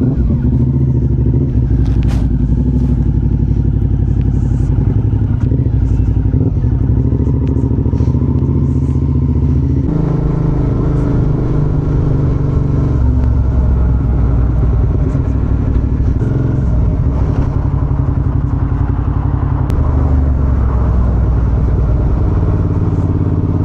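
Suzuki V-Strom 650XT's V-twin engine running under way, a steady drone that shifts in pitch several times, first about ten seconds in, as the bike changes speed or gear.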